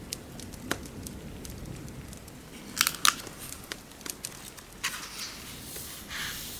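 Fireplace crackling: scattered sharp pops and snaps over a low steady rumble, with a louder cluster of pops about three seconds in. A soft rustle comes near the end.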